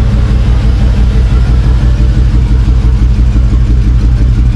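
The old Chevy truck's swapped-in engine idling with a steady, deep exhaust rumble.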